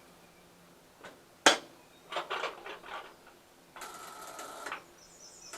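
Ford 8N tractor's starting circuit buzzing instead of cranking when the starter is pressed: a sharp click about a second and a half in, a run of clicks, then a steady electrical buzz near the end with no engine turning over. The owner puts it down to not enough power reaching the starter and suspects dirty battery terminals and a faulty starter button.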